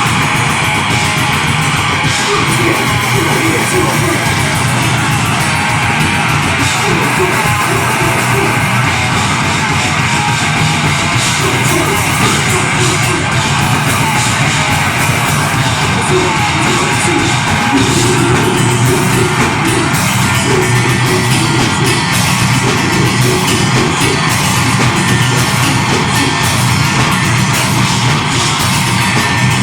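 Live deathgrind band playing flat out: heavily distorted guitars, bass and very fast drumming, with harsh yelled vocals.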